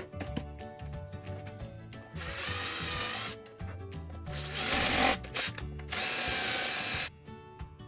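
Power drill running in three bursts of about a second each, over background music.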